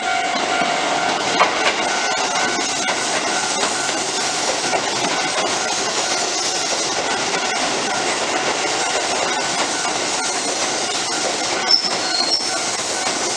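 Keisei electric train running past: a steady rush of wheel and rail noise with a few sharp clicks.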